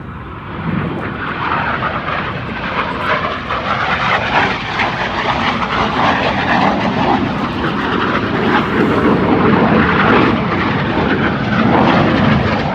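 Jet noise from Red Arrows BAE Hawk jets making a low pass. The roar swells about a second in and stays loud as the two jets close on each other for double rolls.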